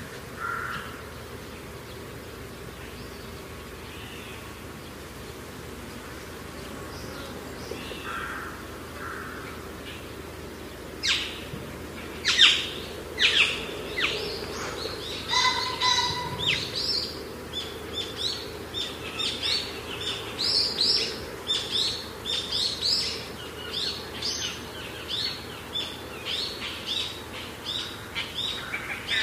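Birds calling: a long series of short, sharp chirps that starts about a third of the way in and goes on at two or three calls a second, with one longer held call among them, over steady outdoor background noise.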